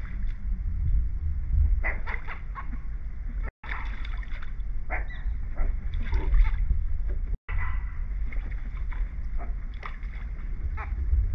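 Water lapping and splashing against a dock under a steady low rumble of wind on the microphone. The sound cuts out briefly twice.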